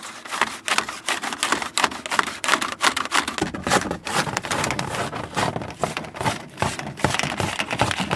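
Drain snake being worked through an air conditioner's condensate drain line to clear debris, its cable rattling and scraping inside the pipe in quick, irregular clicks.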